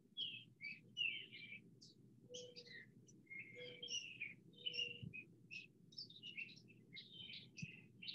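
Songbirds chirping and singing, a continuous stream of short, high calls and trills.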